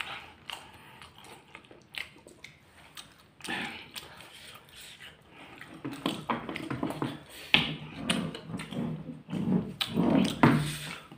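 Close-up eating sounds: chewing, lip smacks and mouth clicks as fried egg in balado chilli sauce is eaten with rice and raw chillies. The sounds become busier and louder about halfway through.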